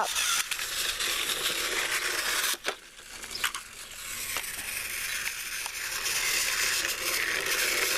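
Battery-powered TrackMaster toy trains running on plastic track, their motors and gears giving a steady grinding whir. The whir dips briefly about three seconds in, with a few small clicks.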